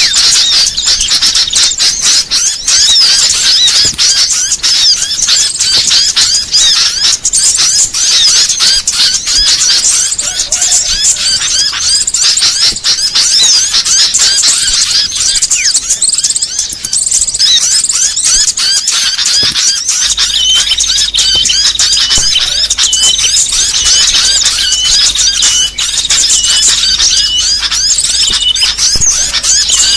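Loud, dense chorus of many small birds chirping and squeaking at once, a mixed small-songbird lure call (suara pikat) made to draw small birds in. From about two-thirds of the way through, a short note repeats steadily beneath the chatter.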